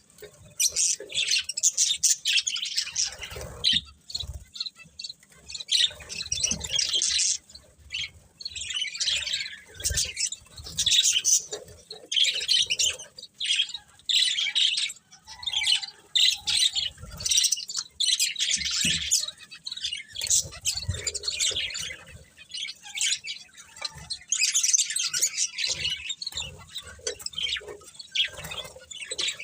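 Budgerigars chirping in repeated bursts of high calls, each a second or two long with short pauses between, and a few soft low thumps among them.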